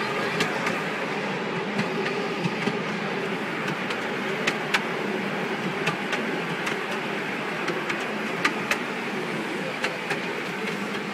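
Miniature railway train running along its track, heard from an open passenger car: a steady rolling rumble with sharp clicks at irregular intervals.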